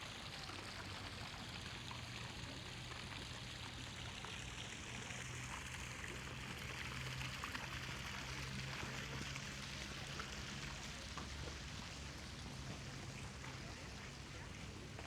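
Water splashing steadily from a fountain, with a faint low hum underneath.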